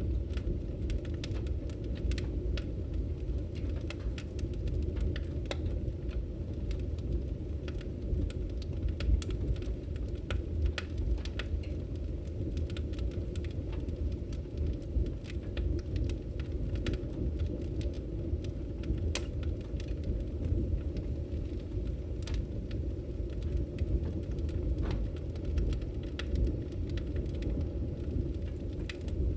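Wood fire burning in a fireplace: a steady low roar of the flames with scattered sharp crackles and pops at irregular intervals.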